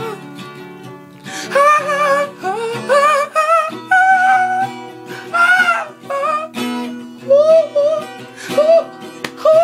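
Acoustic guitar strumming under wordless singing: drawn-out sung vowels with a wavering pitch, in short phrases.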